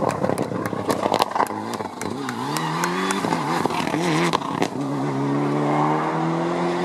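Rally car engine under hard acceleration, its note climbing and dipping through the revs, then holding and rising slowly. A quick run of sharp cracks comes in the first two seconds.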